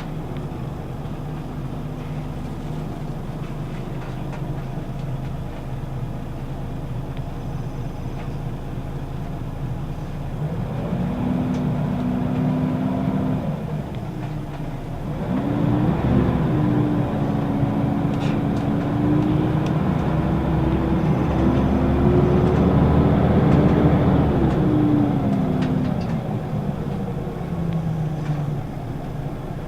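Scania L94UB city bus's diesel engine and ZF automatic gearbox heard from inside the passenger cabin: a steady hum at first, then pulling away about ten seconds in. There is a short dip near the middle, like a gear change, then a longer, louder pull that eases off near the end.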